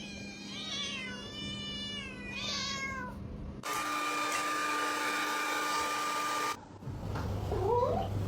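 A domestic cat meowing, a run of drawn-out cries falling in pitch, over a low steady hum. Then a steady mechanical whirr with a fixed tone sets in and cuts off suddenly, followed by a short rising cry near the end.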